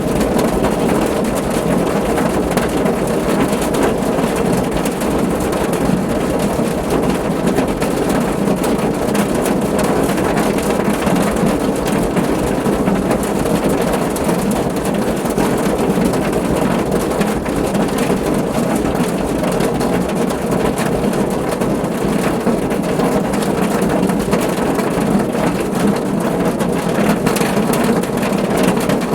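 Steady rain falling on a car's roof: a dense, unbroken patter of drops that holds at an even level throughout.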